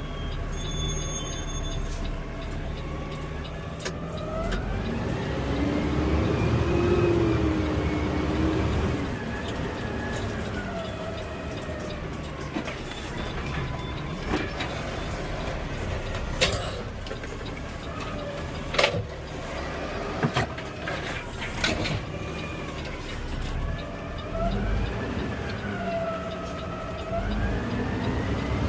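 CNG garbage truck's engine running while driving, its pitch climbing and dropping back several times as it speeds up and shifts. A few sharp knocks and clunks come from the truck about halfway through.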